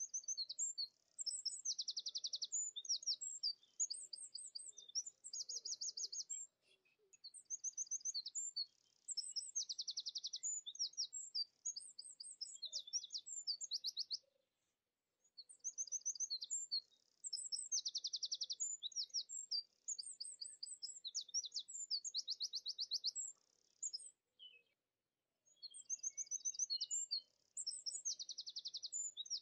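Songbird singing high-pitched chirps and fast, buzzy trills in repeated bouts of about six seconds, with brief pauses between bouts.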